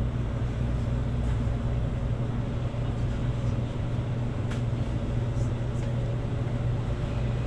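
Steady low rumble and hum of a vehicle in motion, with a faint whine that rises slightly near the end.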